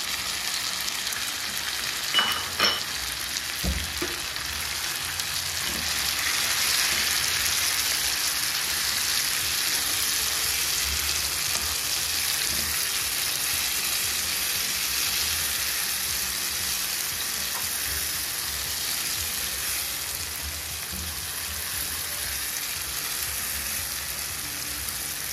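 Goat meat and onions sizzling as they fry in ghee in a pan, with a few sharp clinks of a utensil about two to three seconds in. The sizzle swells a little about six seconds in and then holds steady.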